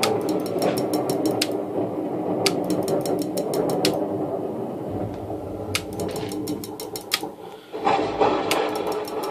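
Recorded thunder played through a phone's speaker: a continuous rumble. Over it come four bursts of rapid clicking, about eight clicks a second, from the strobe lights firing.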